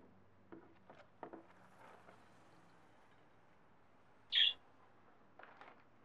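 A pet bird gives one short, high chirp about four and a half seconds in, with a few faint clicks and rustles around it.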